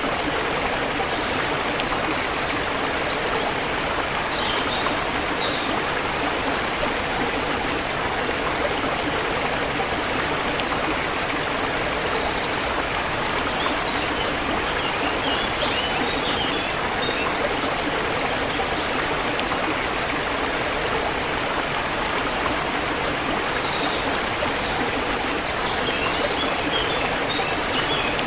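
Forest river flowing: a steady, even rush of running water. Birds chirp briefly over it a few times, around 4 to 6 seconds in, in the middle and near the end.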